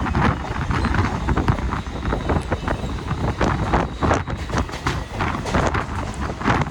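Mumbai suburban electric local train running on the track: a steady heavy rumble with many irregular clanks and knocks from the wheels and cars.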